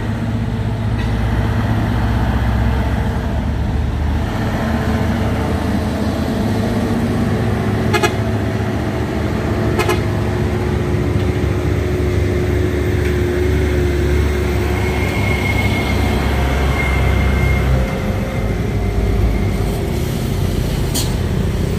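Heavy truck diesel engines running steadily under load on a climb, with a deep continuous drone.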